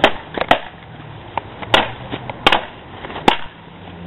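A series of about six sharp knocks or snaps at uneven intervals, over a steady background hiss.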